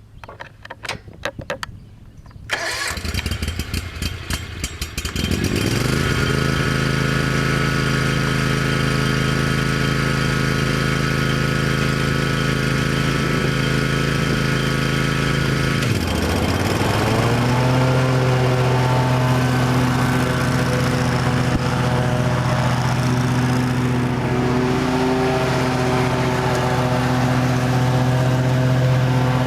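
Wright 52-inch Sentar stander mower's Kawasaki engine cranked over for a few seconds and catching, starting right up, then running steadily. About halfway through the engine speed dips briefly and then rises to a higher steady speed.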